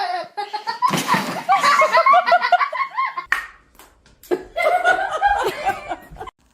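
People laughing in two loud bouts of quick repeated laugh syllables, the second starting a little past four seconds in.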